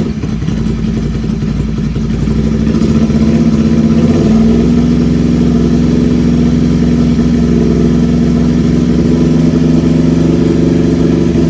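Ducati Scrambler 800's air-cooled L-twin engine, with an open headerback exhaust and its dB killer removed, revved up over the first few seconds and then held steady at about 3,000 RPM. It is loud, measured at about 104 dB without the dB killer.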